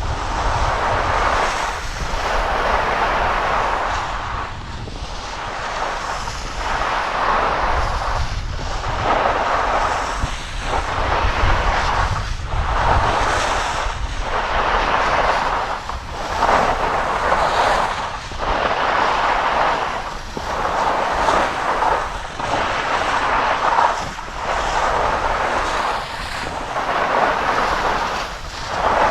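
Skis hissing and scraping on snow in a steady rhythm of turns, one swell of hiss about every two seconds, with wind rumbling on the microphone.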